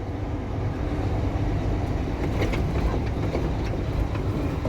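Vehicle engine running: a steady low rumble with light rattles and clicks scattered through it.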